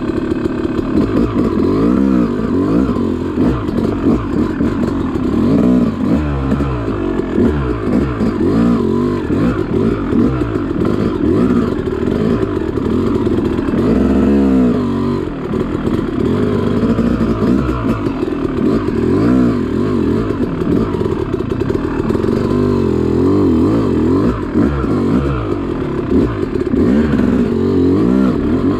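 Yamaha YZ two-stroke dirt bike engine being ridden hard on a tight trail, its pitch constantly rising and falling as the throttle is opened and shut every second or two, with a couple of longer revs about six and fourteen seconds in.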